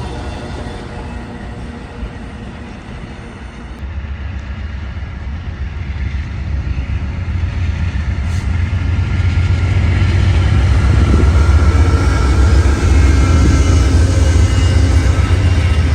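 A train approaching and passing, its heavy rumble growing louder from about four seconds in and holding steady from about ten seconds on.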